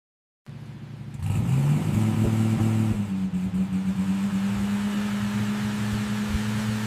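Supercar engine starting up about half a second in, swelling with a brief rise in revs, then settling into a steady, even idle.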